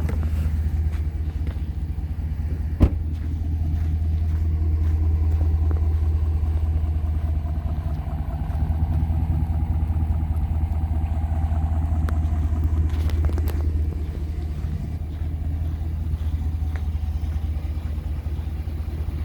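Pickup truck's engine idling steadily, a low hum, with a single sharp click about three seconds in.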